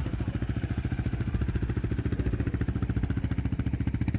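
A vehicle engine idling steadily close by, with a rapid, even pulse.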